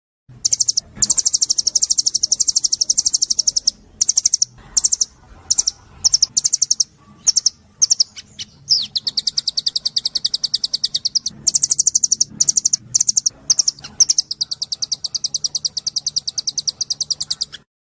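A small songbird singing in rapid runs of high, evenly repeated chirps, about seven a second, in long trilled phrases broken by a few shorter bursts in the middle.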